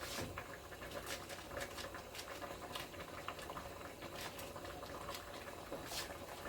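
Pot of cow foot stew bubbling on the stove, with irregular small pops and clicks.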